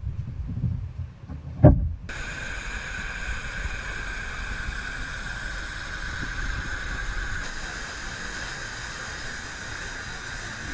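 Steady rushing hiss of a waterfall's falling water, starting abruptly about two seconds in after a low rumble and a single thump.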